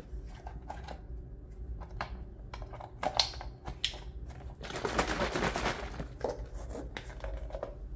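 Kitchen handling noises while preparing a bowl of fruit: scattered small clicks and knocks, with a brief rustling rush about five seconds in.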